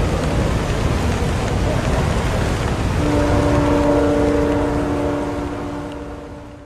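Rain-and-city ambience: an even wash of rain noise over a low traffic rumble, joined about three seconds in by a steady pitched hum. The whole track fades out near the end.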